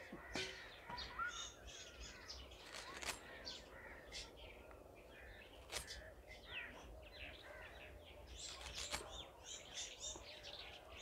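Faint birdsong: several small birds chirping and twittering, with a few soft clicks now and then.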